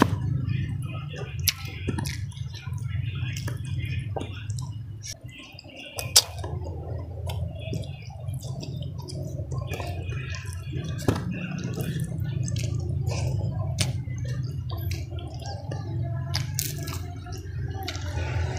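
Close-miked eating sounds: a person chewing a mouthful with wet smacking and sharp, irregular mouth clicks, over a low steady hum that drops out briefly about five seconds in.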